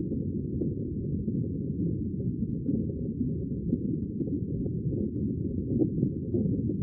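Muffled, steady rumble of sea water with no high hiss, only a low, dull wash, and faint small ticks now and then.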